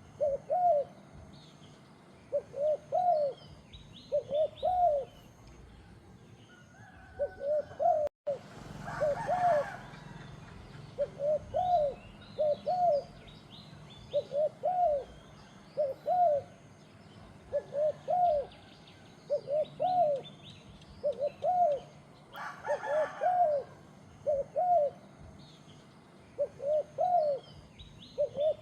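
A turtle dove cooing over and over, its low coos coming in pairs or threes every second or two. Small birds chirp faintly in the background, and there are two brief rustling bursts about eight and twenty-two seconds in.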